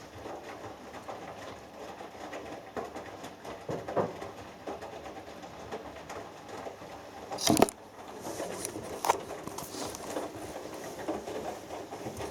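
Hoover Dynamic Next front-loading washing machine tumbling a wet 6 kg cotton load in the main wash: water sloshing and clothes pattering against the drum, with one sharper knock about seven and a half seconds in.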